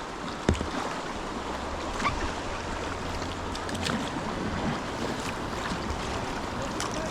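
Rushing whitewater river water with wind buffeting the microphone, and a few sharp knocks; the loudest knock comes about half a second in.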